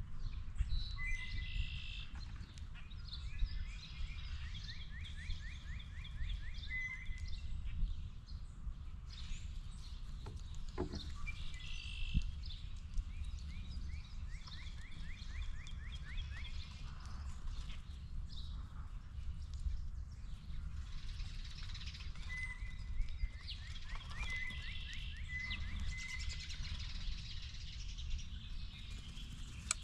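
A songbird singing the same phrase three times, roughly ten seconds apart: a clear note followed by a quick run of rapid notes. A steady low outdoor rumble runs underneath.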